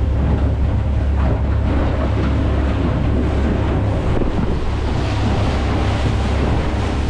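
Wind buffeting the microphone on a small boat running across open water, with water rushing and a steady low rumble underneath.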